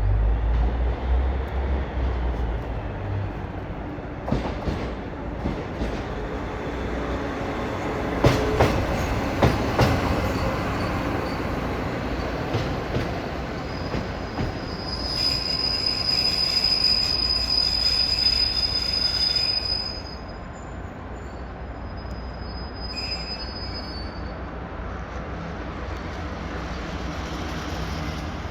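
DD60 diesel locomotive running light: a low engine drone, then a run of knocks from the wheels over rail joints. Near the middle the brakes set up a high, steady squeal for about five seconds as it stops, and then only the engine is left, idling.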